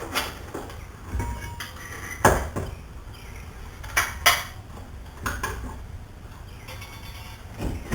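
Scattered metallic clinks and knocks as a wire coat hanger is hooked around a removed brake caliper to hang it up, about six in all, the loudest a little over two seconds in and a close pair about four seconds in.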